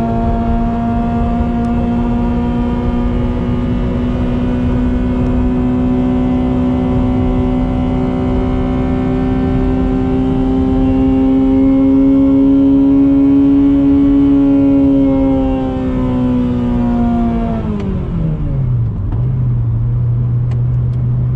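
Honda Civic FD2's high-revving four-cylinder engine held near the top of its rev range, its pitch creeping slowly up toward about 8600 rpm. About three-quarters of the way through the revs are let go: the pitch drops quickly and the engine settles to a steady low idle.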